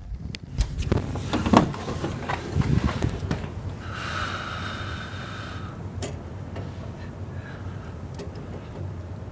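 Strong storm wind buffeting the microphone in a steady low rumble. There are several knocks in the first few seconds, and a high squeal lasts a second and a half from about four seconds in.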